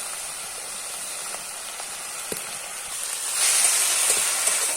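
Chopped kulekhara greens sizzling in hot oil in a kadai, a steady hiss that gets markedly louder about three and a half seconds in.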